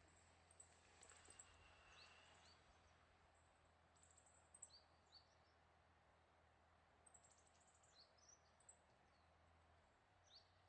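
Near silence with faint, high chirps of small birds calling in scattered short clusters, over a faint steady hiss.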